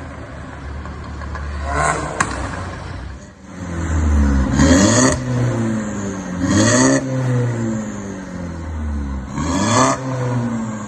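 Mercedes-Benz A200's M270 turbocharged four-cylinder, through a catless downpipe and valved cat-back exhaust, revved three times, each time climbing in pitch and falling back to a low steady note.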